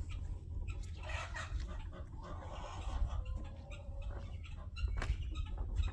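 Chickens clucking and calling in a coop, with scattered short clicks and knocks and a steady low rumble underneath.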